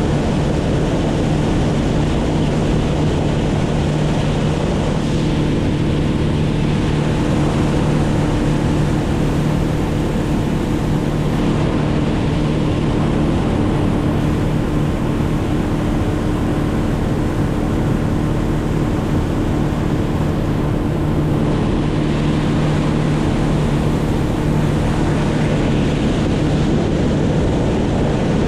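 An engine running steadily at one constant speed, with a rushing noise over it.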